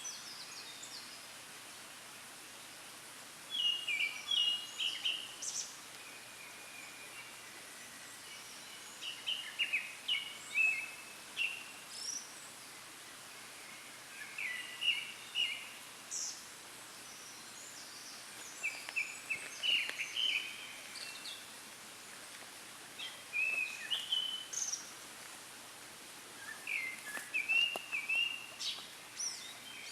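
Japanese thrush singing: about six short song phrases of quick, varied notes, each a couple of seconds long, with a few seconds' pause between them. This is the male's full song, given from a treetop perch.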